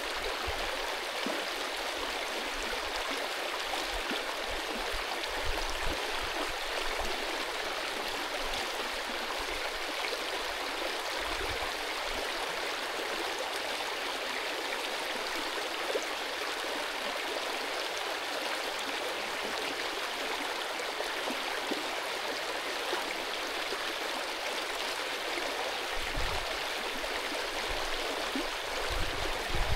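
Mountain stream rushing and gurgling steadily.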